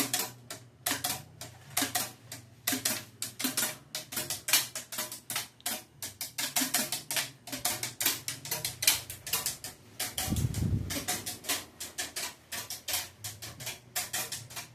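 Hampton Bay Redington ceiling fans running with a steady low hum, under fast, irregular clicking and ticking that the owner puts down to one of the garage wires. A short low rumble comes about ten seconds in.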